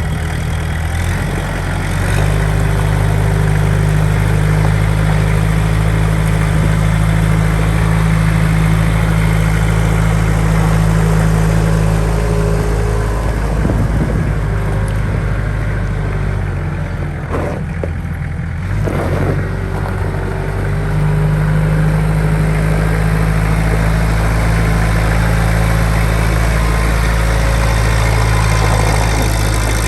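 Kubota M6800 tractor's diesel engine running steadily. Its speed picks up about two seconds in, falls back for several seconds in the middle, and rises again about two-thirds of the way through.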